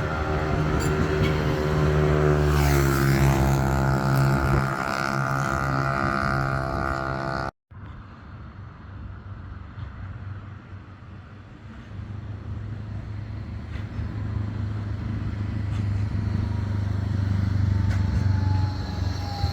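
Bombardier Flexity 2 tram's electric traction drive whining, a stack of tones that falls in pitch about two to three seconds in as it slows, then holds steady. After an abrupt cut at about seven and a half seconds, a low vehicle rumble comes in and builds gradually.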